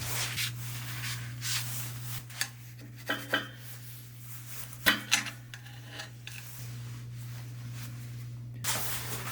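Scrubbing and wiping on the air compressor pump's pistons as they are cleaned, in uneven strokes with a few short metallic clinks. A steady low hum runs underneath.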